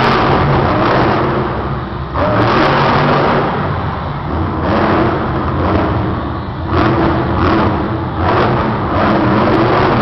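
Monster truck engine revving hard in the arena, surging loud and dipping briefly about two seconds in and again just before seven seconds, each dip followed by a sudden surge.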